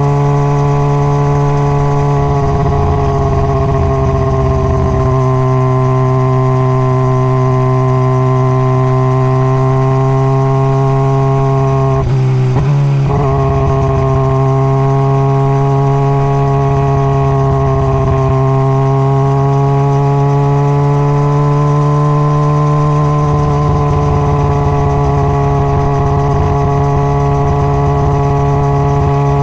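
Honda CBR600RR's inline-four engine running at steady cruising revs, its pitch drifting gently up and down with the throttle. About twelve seconds in the note breaks off briefly and dips in pitch before settling back.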